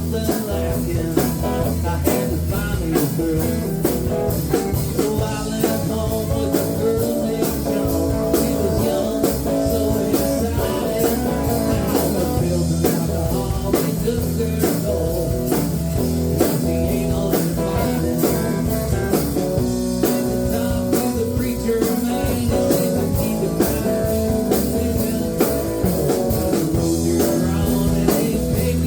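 Live rock band playing: guitar over bass and a drum kit keeping a steady beat.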